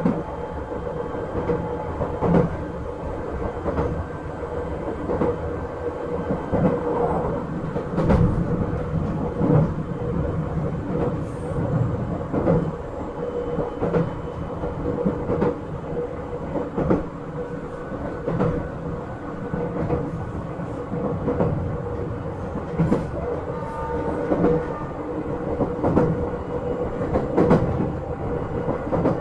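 Izukyu 8000 series electric train running at a steady speed, heard on board: an even motor and gear hum with wheels clacking over rail joints about every second and a half.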